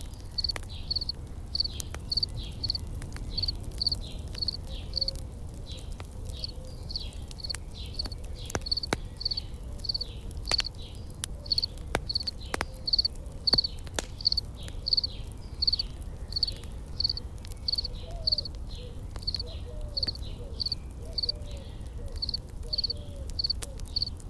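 Insect chirping steadily at about two high chirps a second, with scattered sharp campfire crackles and pops over a low fire rumble.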